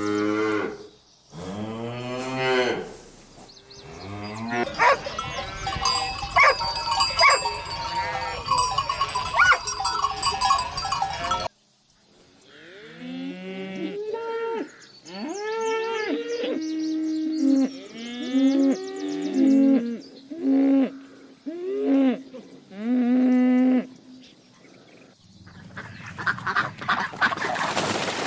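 Cattle mooing, followed by a dense stretch of overlapping calls with bell-like ringing. After a sudden cut comes a run of short rising-and-falling animal calls, about one a second, and a rushing noise near the end.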